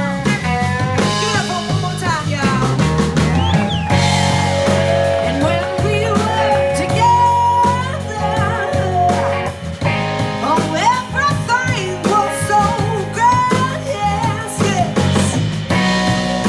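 Live blues-rock band playing: electric guitar, bass and drums under a bending lead melody line.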